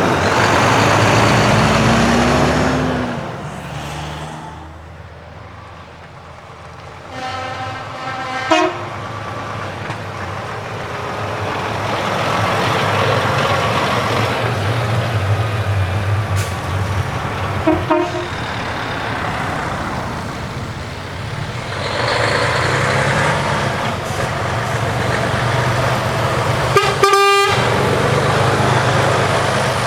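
Heavy trucks driving past with loud engines and exhausts, sounding their air horns in short blasts three times: about a quarter of the way in, midway, and loudest near the end.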